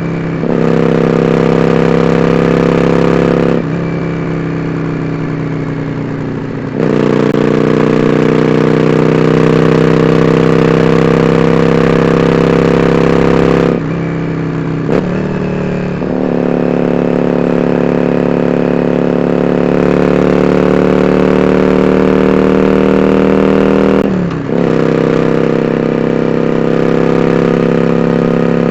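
Yamaha Drag Star 400 Classic's V-twin running through 4-inch dual Supertrap open-end 8-disc mufflers while under way. The exhaust note slowly climbs in pitch, then drops back when the throttle closes: once about four seconds in, for about three seconds, and again about fourteen and twenty-four seconds in.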